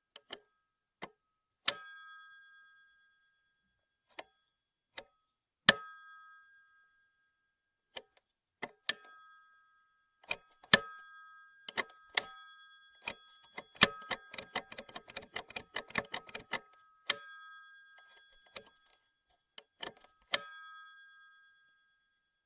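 Old rotary telephone being handled: a series of sharp clicks and knocks, several of which make its bell give a short ding that fades away. About halfway through comes a quick run of rattling clicks lasting between two and three seconds.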